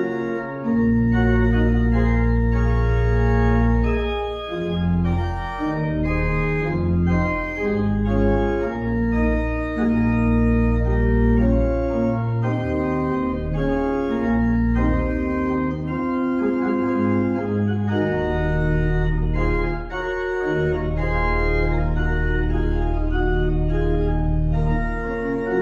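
Church organ music: full sustained chords over long-held bass notes, the harmony moving every second or two, typical of a postlude closing a service.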